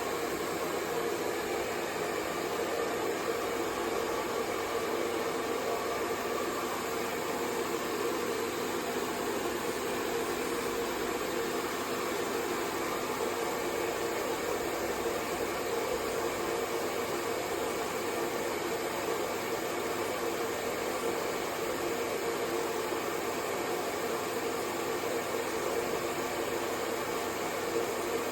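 Electric hair dryer running steadily: an even, unchanging rush of air with a steady hum underneath.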